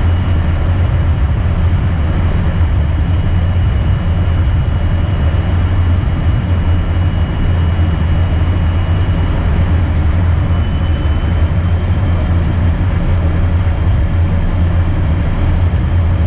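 Steady cabin noise in the cockpit of an Embraer Phenom twin-engine business jet: engine and airflow noise with a strong low drone and a thin high whine.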